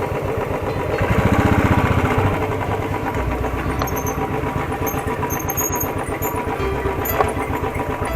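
Motorcycle engine running while riding, a rapid, even stream of firing pulses that swells slightly for about a second near the start.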